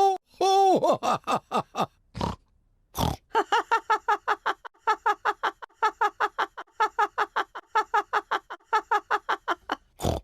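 Cartoon pig voices oinking and snorting in a fast, unbroken string, about five snorts a second, from about three and a half seconds in. Before that come a couple of pitched chime-like notes, a quick falling run of short blips and two short noisy bursts.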